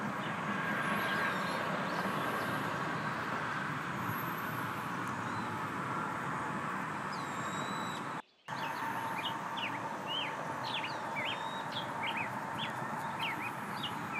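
Outdoor ambience of small birds chirping over a steady background hiss. There are a few chirps early and a quick run of short chirps in the second half. The sound drops out for a moment just past the middle.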